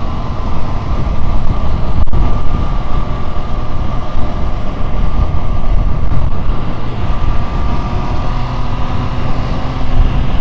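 MV Agusta Brutale 675 motorcycle under way: heavy wind rush on the helmet microphone over the engine running steadily.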